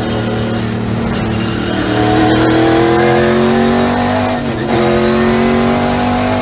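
Race car engine under hard acceleration, rising in pitch, with a quick gear change about four and a half seconds in before it pulls up through the revs again.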